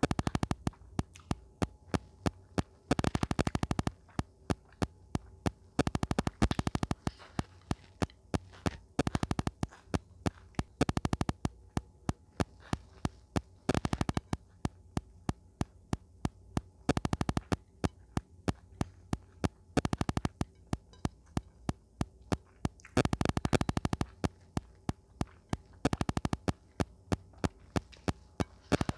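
Close-miked eating: a steady run of sharp, wet mouth clicks from chewing, with denser crunchy bursts about every three seconds.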